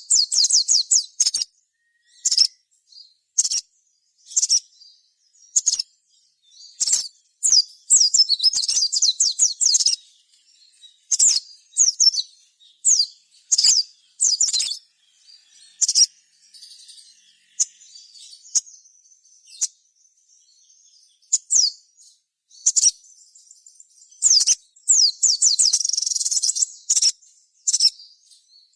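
Crimson sunbird (sogon) calling in lively song: high, thin chirps and rapid twittering trills in bursts with short pauses, the kind of vigorous 'gacor' calling played to provoke other sunbirds into answering.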